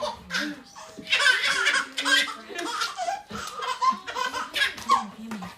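People laughing hard, in a run of repeated bursts of laughter.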